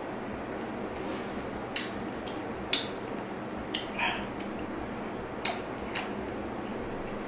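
Close-up wet eating sounds from chewing soft dragon fruit: a handful of sharp mouth clicks and a squish, spaced irregularly, over a steady background hiss.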